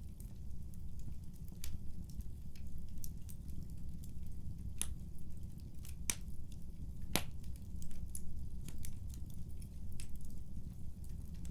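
Wood fire in a fireplace crackling: irregular sharp pops and snaps over a steady low rumble of the flames, with three louder pops near the middle.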